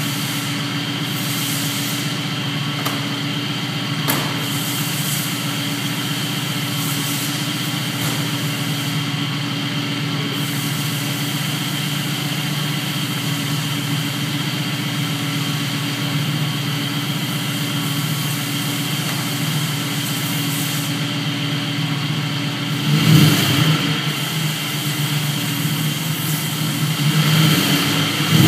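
Ford Coyote 5.0 DOHC V8, freshly swapped into a 1968 Mustang, idling steadily on its first start-up. Near the end it swells louder twice as the revs are raised briefly.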